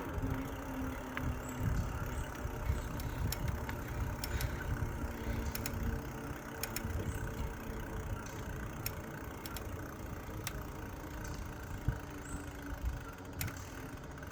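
Riding noise from an e-bike on the move: wind rumbling on the microphone with a faint steady hum underneath and scattered sharp ticks.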